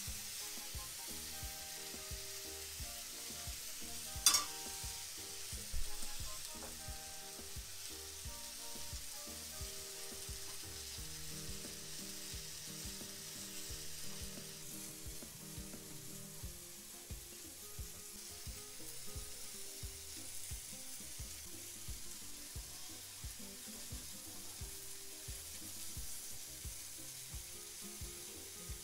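Food sizzling steadily in pans on a wood-fired stovetop, with a sharp metal clink about four seconds in and a smaller one a second and a half later as a utensil knocks against a pan or plate.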